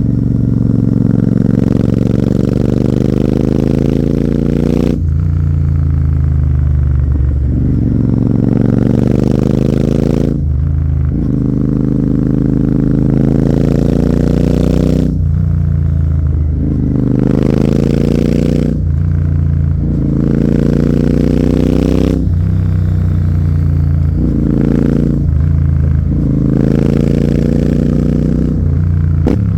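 Royal Enfield Continental GT 650's parallel-twin engine through an aftermarket AEW 103 exhaust, pulling hard under way: the revs climb, then drop sharply as it shifts or rolls off, over and over, about eight times.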